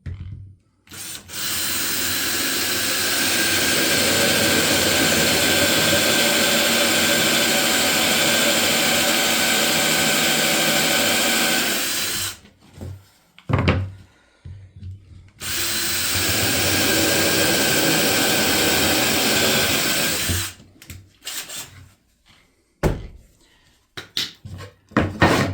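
Drill running a 1.5-inch hole saw through a wooden birdhouse front board, cutting the entrance hole in two long steady runs of about eleven and five seconds with a short pause between. A few short knocks follow near the end.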